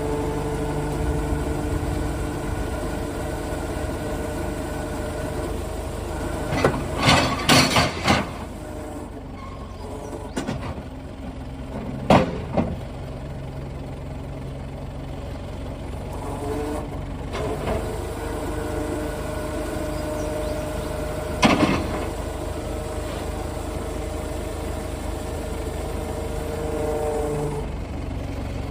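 New Holland backhoe loader's diesel engine running steadily. Sharp knocks stand out over it: a quick cluster about seven seconds in, then single ones about twelve seconds in and near twenty-one seconds.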